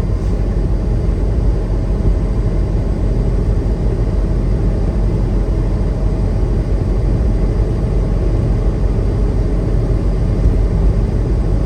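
Steady engine and road noise of a semi-truck driving at a constant pace, heard from inside the cab: an even low rumble.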